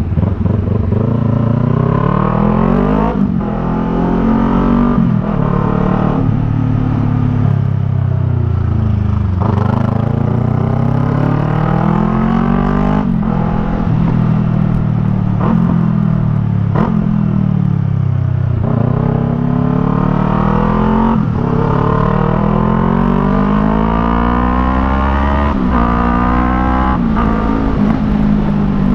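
Yamaha MT-03's 321 cc parallel-twin engine breathing through an aftermarket Jeskap R3 Cup exhaust, ridden hard: the engine note climbs again and again and falls back each time, several times suddenly as it shifts up, then swells and eases off.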